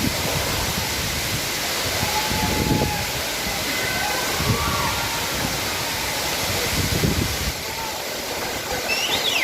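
Waterfall's falling water, a steady loud rush, with faint voices of people in the background. The lowest rumble drops away about three quarters of the way through.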